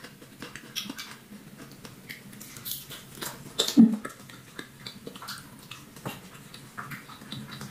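Close-miked eating sounds: a person chewing and lip-smacking a mouthful of fried battered tempeh and rice, with many small wet mouth clicks and one louder short smack about halfway through.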